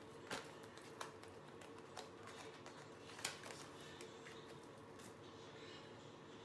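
Near silence: quiet room tone with a faint steady hum and a few soft, scattered clicks, the sharpest about three seconds in.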